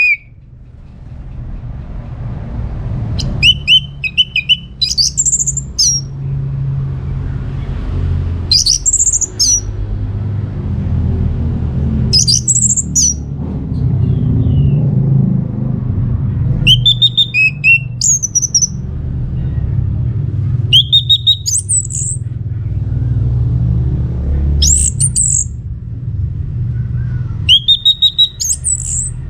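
Orange-headed thrush singing: short, high, varied song phrases, one roughly every four seconds, over a steady low rumble.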